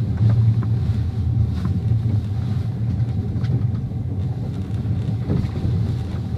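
Passenger train running: a steady low rumble with a few faint clicks and knocks.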